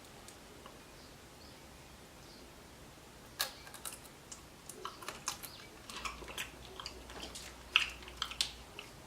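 Roasted pumpkin seeds being cracked and chewed: a quiet start, then from about three seconds in a run of irregular sharp cracks and clicks.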